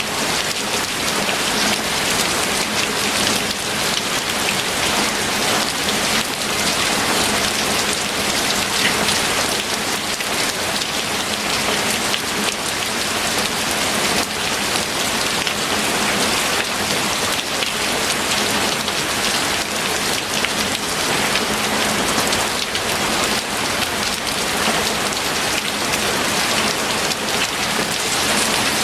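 Steady rain falling: a dense, even hiss of countless drops that holds at the same level throughout.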